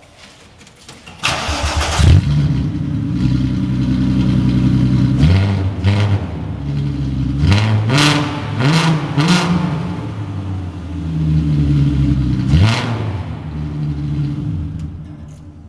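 Seat Toledo V6 engine running with no exhaust fitted. It is cranked and catches about two seconds in, then idles with repeated short throttle blips, the revs rising and falling several times.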